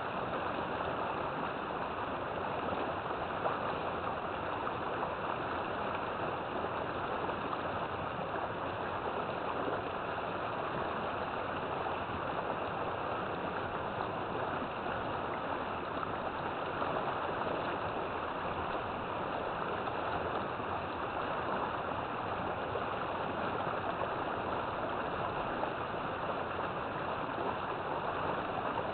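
River water flowing and rushing steadily, an even churning hiss with no breaks.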